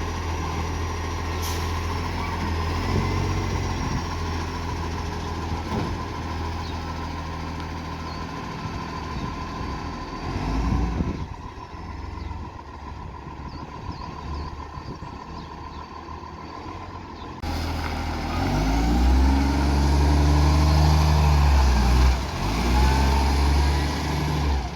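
Old garbage truck's diesel engine with a leaking exhaust, running steadily at first. From about eighteen seconds in it revs up and down several times, louder.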